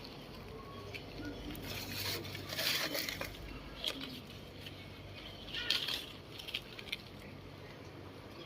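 Leaves rustling and crackling as they are handled and picked by hand, with a few short sharp snaps in two clusters, about two seconds in and again past the middle.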